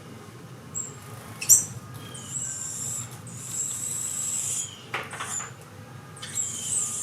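Carolina wren nestlings begging for food in the nest: high, thin, hissing cries in stretches of about a second each, three times, with a few short sharp sounds between them.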